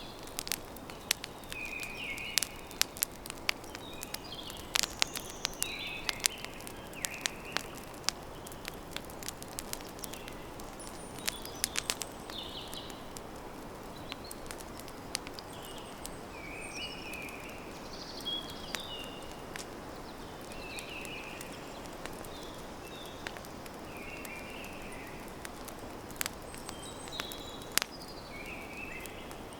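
Wood fire crackling, with sharp pops that come thickest in the first half, over a steady low hiss. Small birds chirp in short repeated calls every second or two throughout.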